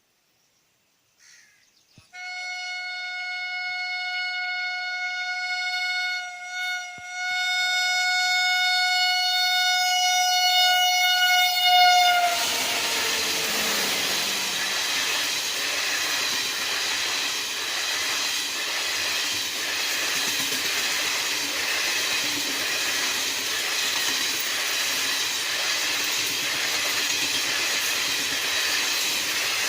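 An express train's locomotive horn sounds a long blast, broken briefly twice near the middle, its pitch dropping as the locomotive passes. The train then rushes past at speed, wheels clattering over the rail joints in a steady rhythm.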